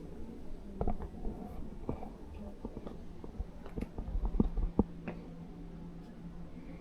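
Steady low hum with a scattering of short, irregular knocks and clicks, the loudest about four to five seconds in.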